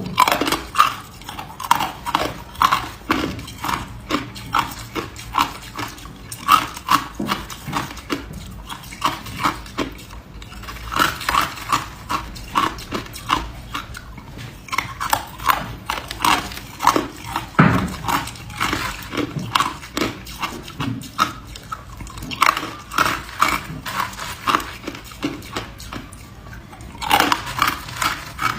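Person biting and chewing hard ice close to the microphone: crisp crunches, several a second, in runs broken by short pauses.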